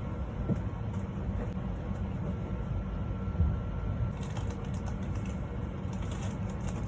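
Airport terminal ambience while walking: a steady low rumble with light clicks and rattles, and some more hiss and ticking from about four seconds in.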